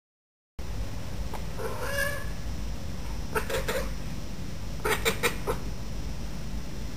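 Bengal cat chirping and chattering at a bird: one call about two seconds in, another near the middle, then a quick run of three or four short chirps.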